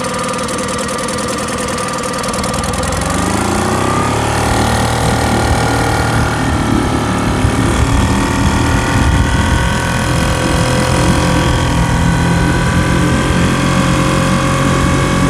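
Boat engine running slowly, then opened up about three to four seconds in, its pitch rising and settling at a higher, steady speed.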